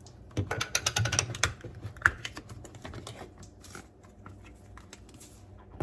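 Quick run of light plastic clicks and clatter as spice containers are picked up and set down on the counter, followed by a few scattered clicks.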